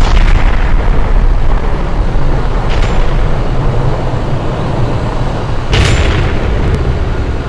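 A fully involved burning Chevrolet Suburban: a steady low rumble of the fire, broken by sudden loud bangs at the start and about six seconds in, with a fainter one about three seconds in.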